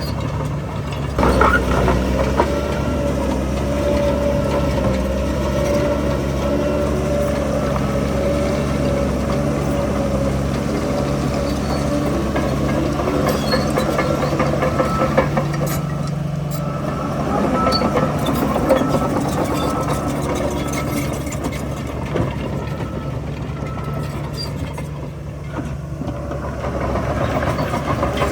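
Heavy diesel earthmoving machinery with its engine running steadily, with a few sharp knocks scattered through.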